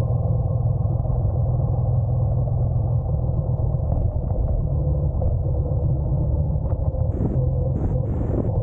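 Honda NC750X's parallel-twin engine running with a steady low rumble. Short gusts of wind hiss hit the microphone near the end.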